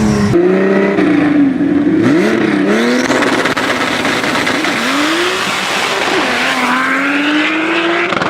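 BMW E30 engine revving up and down repeatedly under hard driving, its pitch rising and falling several times, over a steady hiss of tyre noise.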